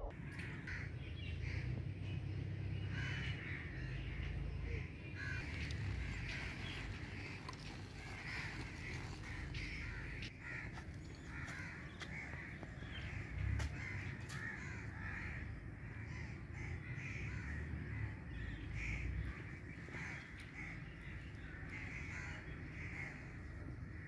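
Birds calling repeatedly, short calls one after another, over a steady low rumble.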